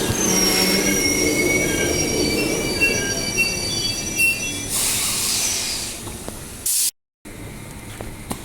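Transperth electric suburban train moving at the platform, its wheels squealing in several high thin tones over a low rumble, then a short hiss about five seconds in. The sound drops out for a moment near the end and a quieter steady rumble follows.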